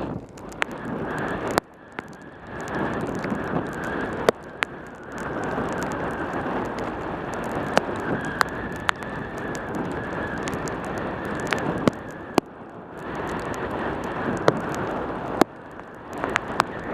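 Wind rushing over a helmet camera's microphone during a fast bicycle descent in rain, the rush dropping away briefly a few times, with many sharp ticks and clicks scattered through it.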